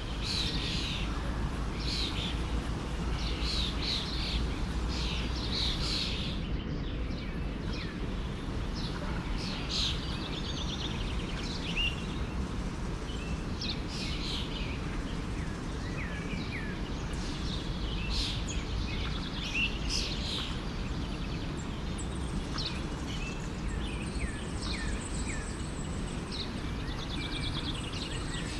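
Several birds chirping and singing in short, repeated phrases, some notes sliding downward, over the steady low rush of a forest stream.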